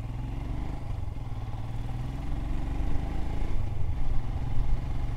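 Royal Enfield Himalayan BS6 single-cylinder engine pulling away on the road, heard from the rider's seat. Its pitch rises and it grows louder as the motorcycle accelerates.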